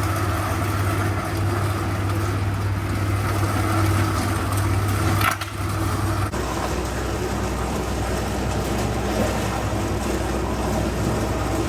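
Electric meat mincer running with a steady motor hum, grinding whole chickens with a crunching, crushing noise. The sound changes abruptly about six seconds in.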